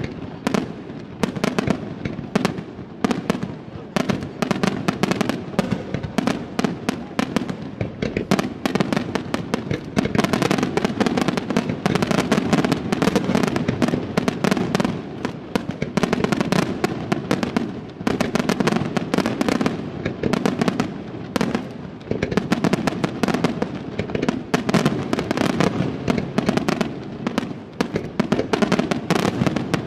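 Aerial fireworks display: a dense, continuous barrage of shell bursts and crackling, many reports a second without a pause.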